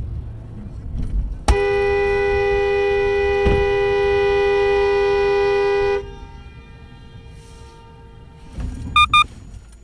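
A car horn held down in one steady blast of about four and a half seconds, over low road rumble. Near the end come two short, higher-pitched beeps.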